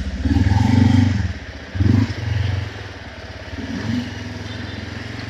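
Motorcycle engine running at low speed, swelling twice in the first three seconds as the throttle opens, then settling to a steadier run.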